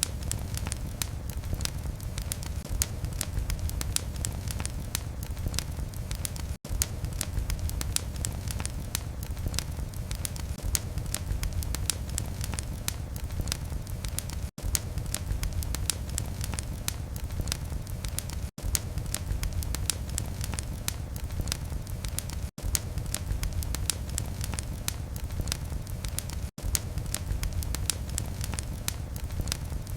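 Wood fire in a fireplace crackling and popping densely over a steady low rumble of flame, with very short dropouts to near silence every few seconds.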